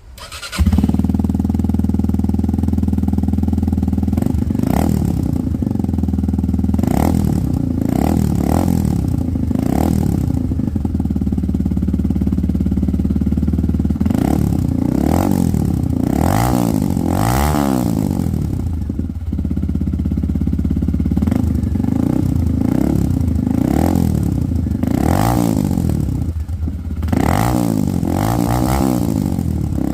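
Lexmoto Michigan 125cc single-cylinder motorcycle engine running through its newly changed exhaust. It comes in suddenly about half a second in and runs steadily for a few seconds. Then the throttle is blipped over and over, the pitch rising and falling with each rev.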